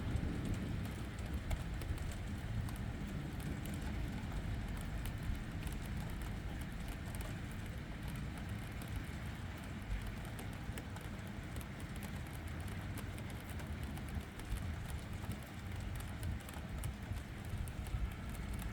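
Steady rain falling during a thunderstorm, a continuous hiss with a low rumble underneath.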